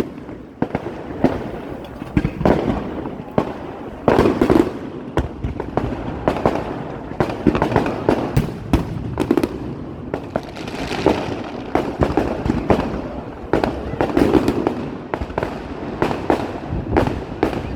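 Fireworks display: aerial shells bursting in a steady run of bangs and pops, with denser volleys about four seconds in, around eleven seconds and around fourteen seconds.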